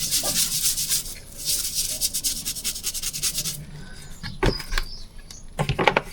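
Rapid back-and-forth scrubbing on degreaser-soaked engine pistons, loosening the hard carbon deposits. The scrubbing stops about three and a half seconds in, followed by a few sharp knocks as the parts are handled.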